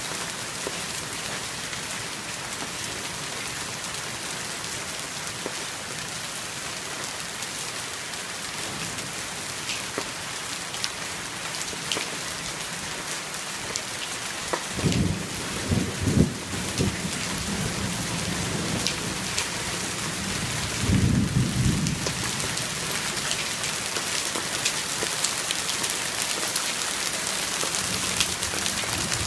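Heavy rain pouring onto trees and a wooden deck: a steady, dense hiss that grows a little louder in the second half. Two short low rumbles break in, about halfway through and again a few seconds later.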